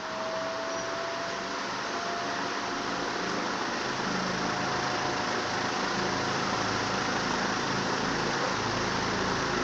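Venti Delta New Delta Light ceiling fan running: a steady rush of air from the blades with a faint motor hum that rises slowly in pitch, and the whole sound grows gradually louder as the fan gathers speed.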